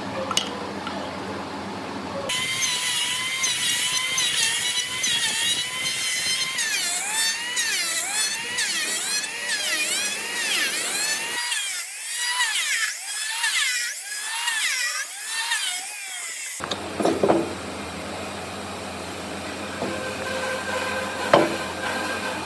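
A power tool working wood, its high whine bending up and down in pitch as the load on it changes. About two seconds in the sound changes, and again about three quarters through, where a steadier tool sound with a few knocks takes over.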